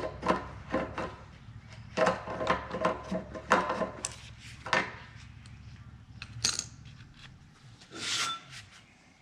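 Hand reamer scraping steel in short, irregular strokes as it is worked back and forth through a bent and hammered bracket pin hole to smooth and deburr it. A steady low hum runs underneath.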